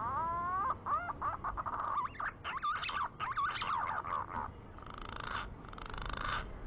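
Green pigeon (punai) calls used as a hunting lure: whistled notes that glide upward, then quick warbling notes rising and falling, followed by two harsher, buzzier notes near the end.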